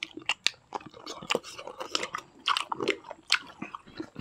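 Close-up chewing and mouth sounds of people eating rice and chicken with their hands, heard as an irregular run of short sharp clicks.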